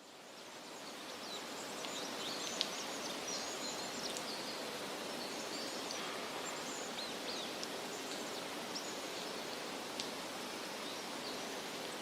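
Forest ambience: a steady background hiss fades in over the first couple of seconds, with many small birds chirping high and quick. Two sharp ticks stand out, one a few seconds in and one near the end.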